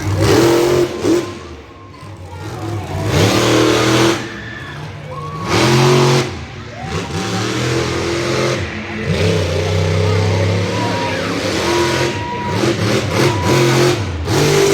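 Monster truck engine revving hard in repeated full-throttle bursts, the pitch surging up and dropping back between them, three big surges in the first six seconds, then running on at lower, uneven throttle.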